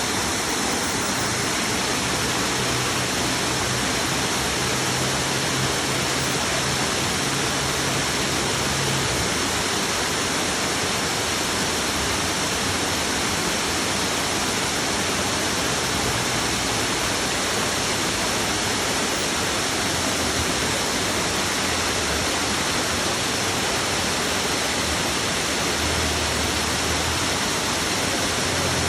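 Creek waterfall: water pouring and splashing in a steady, even rush.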